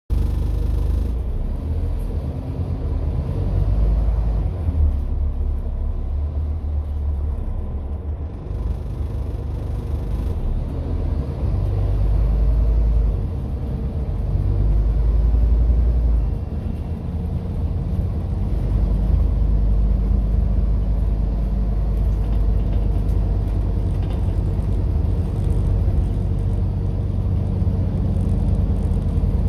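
Scania N230UD double-decker bus engine running with a low rumble that swells and eases several times as the bus pulls and changes speed.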